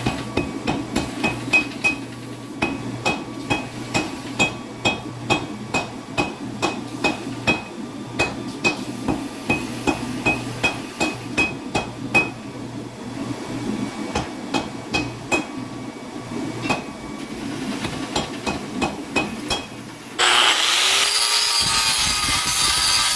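Hand hammer blows forging a cable damascus billet on an anvil, about two strikes a second, each with a short metallic ring, over a steady background hum. About twenty seconds in it cuts abruptly to a power tool starting up and running loudly.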